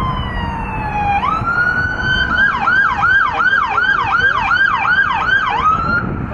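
Electronic siren of a responding emergency vehicle: a slow falling wail that jumps back up about a second in and then switches to a fast yelp, about two and a half sweeps a second, cutting off near the end. A low rumble runs underneath.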